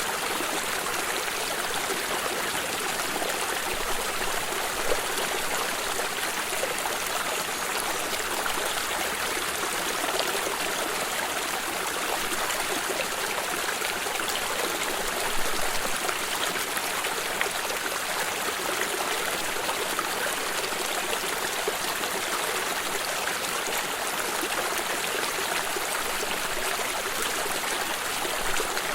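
A stream of water running and trickling steadily, a constant splashing rush with small quick flickers of sound.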